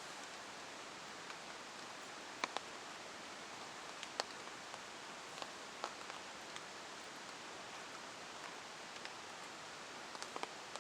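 Steady rain hiss, with a few louder single drops striking close by now and then.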